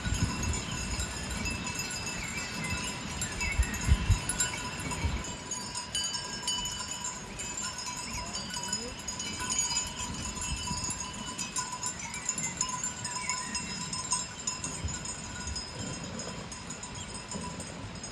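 Bells on a grazing flock of sheep ringing together steadily, with low rumbling knocks in the first five seconds.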